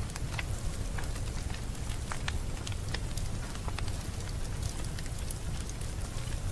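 Wood fire crackling in a fireplace: irregular sharp pops and snaps, a couple a second, over a steady low rumble of burning.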